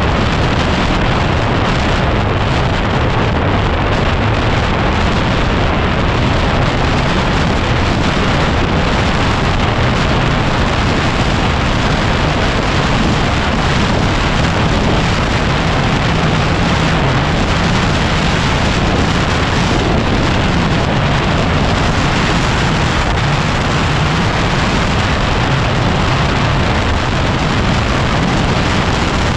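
Steady, loud wind noise battering the camera microphone of a motorcycle being ridden, a 2010 Yamaha WR250R, which masks most of the bike's engine.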